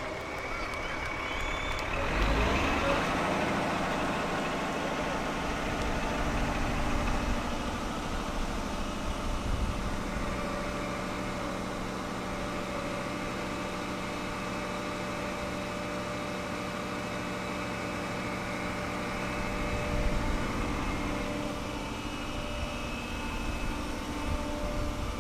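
Heavy truck engine rising in pitch about two seconds in, then running steadily.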